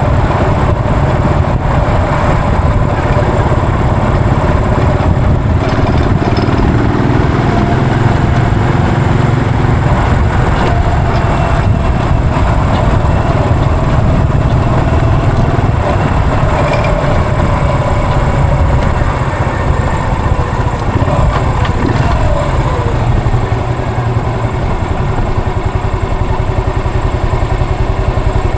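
Yamaha SR400's air-cooled single-cylinder four-stroke engine running steadily as the motorcycle is ridden. The engine note falls about three quarters of the way through as the bike slows, then runs on at a lower pitch.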